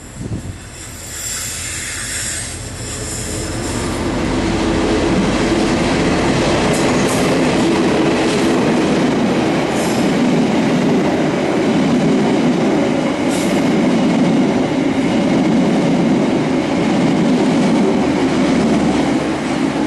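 Passenger train passing close by, its wheels running on the rails with a steady loud rumble that builds over the first few seconds. A high squeal or hiss sounds about one to three seconds in, and a few sharp clicks come through as the carriages roll past.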